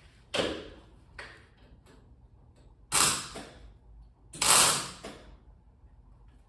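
Short crackling bursts of an electric welding arc as tack welds are struck: a softer one at the start, then two loud ones about three and four and a half seconds in, each about half a second long.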